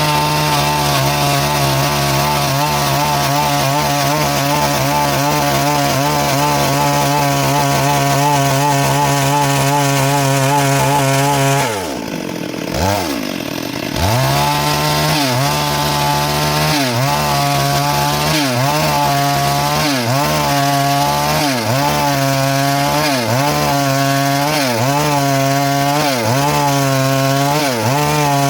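A Stihl MS382 two-stroke chainsaw cutting through wood under load. It runs at a steady high pitch for about twelve seconds, then briefly drops in revs and picks up again. For the rest of the time its revs dip and recover over and over, roughly once a second, as the chain works through the cut.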